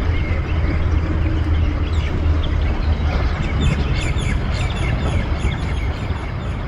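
Small birds chirping over a steady low rumble. From about three and a half seconds in, one bird gives a quick run of repeated high chirps.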